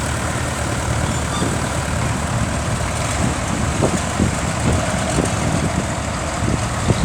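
Vintage tractor engines running steadily at low speed as tractors drive past in a parade.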